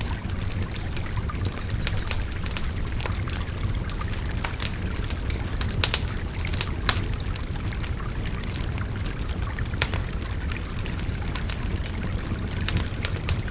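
Wood fire crackling with frequent sharp pops and snaps over the steady rush of a babbling river.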